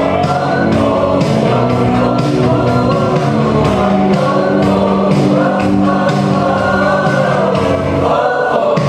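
School choir singing a march in sustained, held notes over accompaniment with a steady beat.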